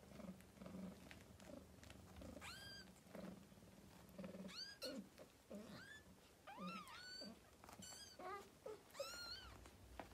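Very young British kittens, about 11 days old, giving thin high-pitched mews, about half a dozen spread from a couple of seconds in, each rising and falling in pitch. Under the mews runs a low, soft purr.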